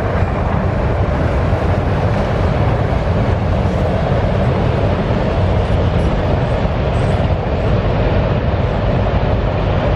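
Train passing, a steady loud rumble and rattle.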